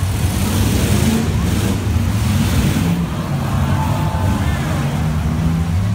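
Demolition derby cars' engines running loudly in the arena, with a noisy haze of crowd and arena sound over them.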